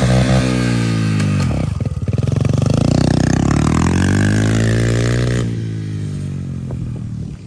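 Pit bike engine being ridden close by, the revs falling, climbing and falling again. The sound fades away over the last couple of seconds as the bike moves off.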